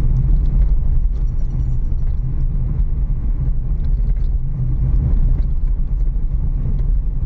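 Renault Kiger driving slowly over a badly broken forest road, heard from inside the cabin with the windows open: a steady low rumble of tyres and suspension, with faint scattered knocks and rattles.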